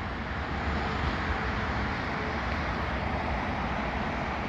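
CN mixed freight train rolling away past the end of its consist: a steady, even rumble of wheels on rail.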